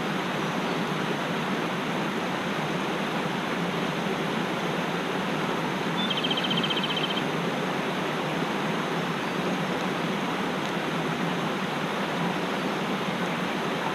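Mountain stream rushing steadily over rocks. About six seconds in, a bird gives one short trill of rapid repeated notes.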